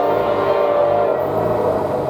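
Locomotive air horn sounding a sustained chord, then fading out about a second and a half in, as SD40-2 3024 leads the train past. A low engine note starts to rise near the end.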